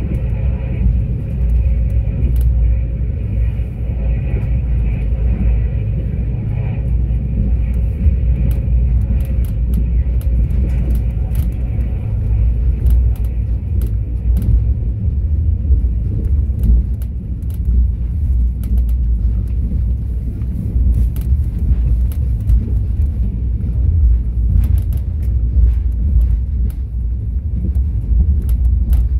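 Mugunghwa-ho passenger train running on the track: a steady low rumble, with a faint whine that fades out by about eight seconds in and scattered sharp clicks after it.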